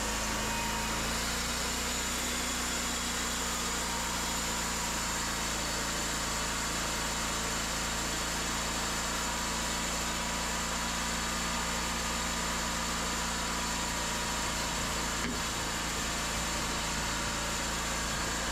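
Cooks 3238 hydraulic sawmill running steadily, its engine drone holding one even pitch.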